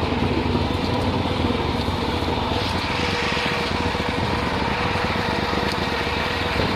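A small vehicle engine running steadily at an even pitch.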